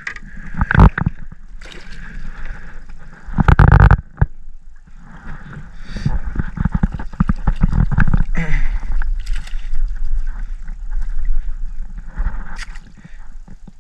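Knocks, thumps and handling noise in a jon boat, with water sloshing and gurgling, while a hooked fish is fought on rod and reel. Sharp knocks keep coming, with one loud burst a little over three seconds in.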